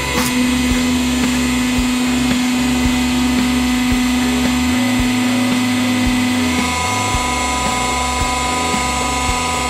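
100-ton hydraulic press's motor and pump running with a steady hum; the main hum changes about two-thirds of the way through.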